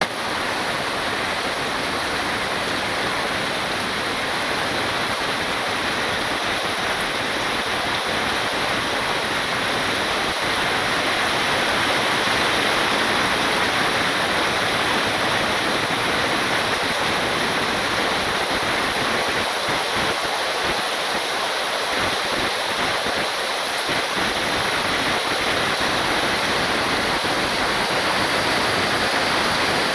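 Heavy rain falling, a steady dense hiss with no separate drops standing out.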